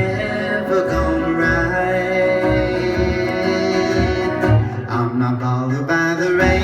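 Live band playing an instrumental passage of a folk-pop song: sustained melody notes over a steady low bass pulse.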